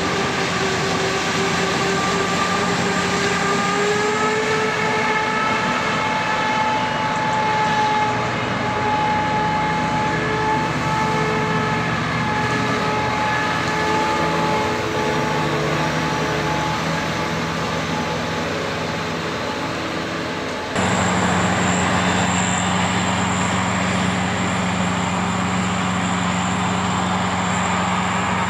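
Heavy harvest machinery running steadily: an engine drone with a high whine over it. About 21 seconds in, the sound cuts abruptly to a different steady engine.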